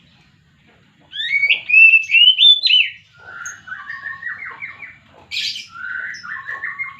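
Oriental magpie-robin (kacer) singing. The song starts about a second in with a loud phrase of clear, sliding whistles, then goes on in quicker runs of short, lower notes, with one brief sharp high note midway.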